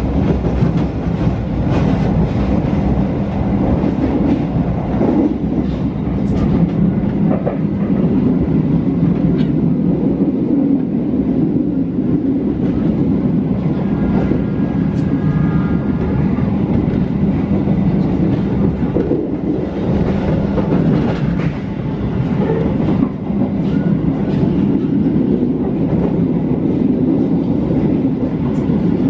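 Inside a moving stainless-steel passenger train coach: the steady low rumble of the car running on the rails, with scattered clicks and rattles from the wheels and rail joints.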